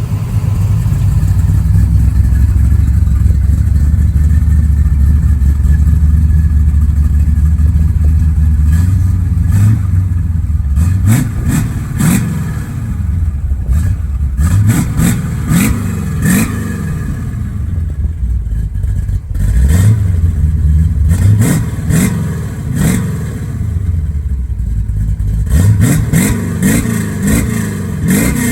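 LS1 V8 in a 1964 Corvette running through a Flowmaster 50 Series Delta Flow true dual exhaust: it idles steadily, then from about ten seconds in it is revved again and again in short blips that rise and fall back.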